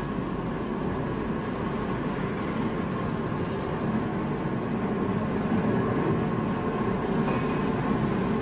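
Steady machinery rumble with a faint, even hum that does not change.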